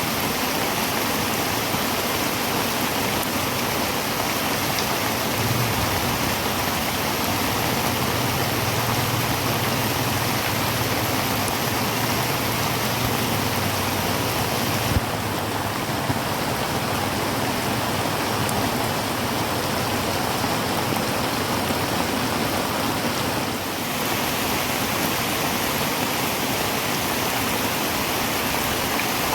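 Heavy rain falling steadily on a tin roof, a dense even hiss of drumming drops. A faint low hum sits underneath for several seconds in the first half.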